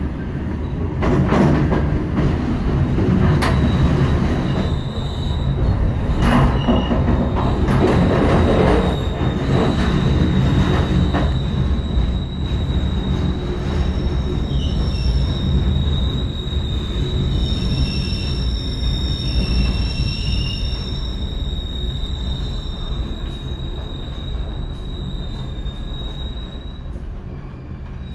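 Train running on the rails: a low rumble with the wheels knocking over rail joints and points in the first ten seconds or so. Then a steady high squeal from the wheels sets in and holds, fading near the end as the train comes into a station.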